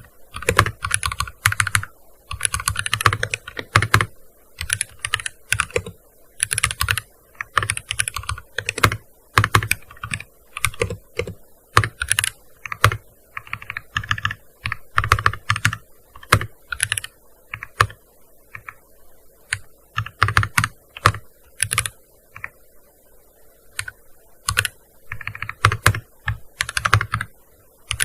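Typing on a gaming keyboard: quick runs of keystrokes broken by short pauses, over and over.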